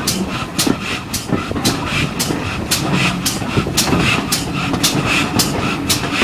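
Heritage railway passenger train running along the line, heard from on board: a steady rumble with a rapid, fairly regular clacking of about three sharp beats a second.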